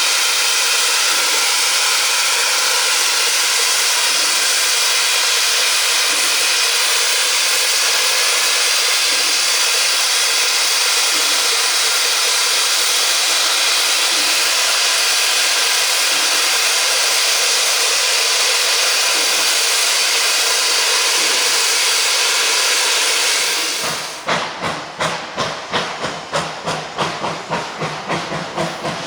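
Two-foot-gauge steam locomotive (Bridgton and Saco River #7) with loud, steady hissing of escaping steam. The hiss cuts off abruptly near the end, and rapid rhythmic exhaust chuffs follow, about four a second, as the engine works along the track.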